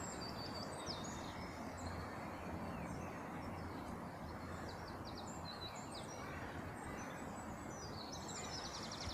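Small songbirds chirping and singing over a steady outdoor background hiss, with a quick trill of repeated notes near the end.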